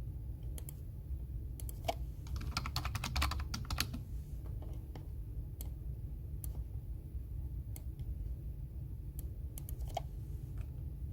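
Typing on a computer keyboard: scattered key clicks, with a quick run of keystrokes about two seconds in, over a steady low hum.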